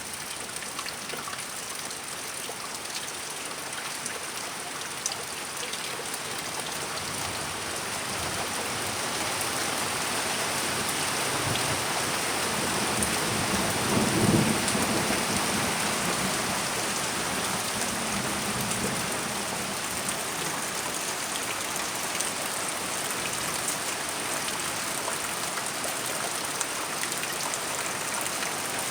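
Rain falling steadily in a thunderstorm, with a roll of thunder that swells to a peak about halfway through and then fades away.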